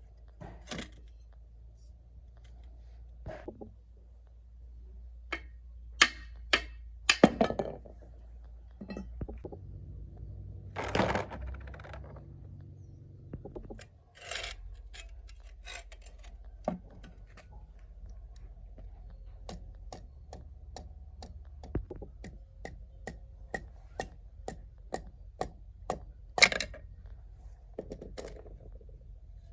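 Metal tools and engine parts clinking and knocking during hand work on an old gasoline engine, with irregular sharp clicks and a few louder clanks. In the second half comes a steady run of light ticks, about two a second.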